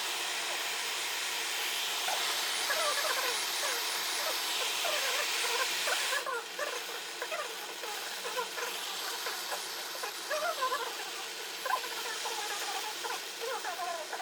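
Many short, high chirps from small animals, most likely birds, over a steady hiss. The hiss drops away suddenly about six seconds in, and the chirps carry on.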